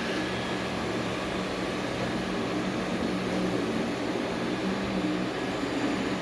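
Ecovacs Deebot U2 Pro robot vacuum-mop running, giving a steady motor and suction hum.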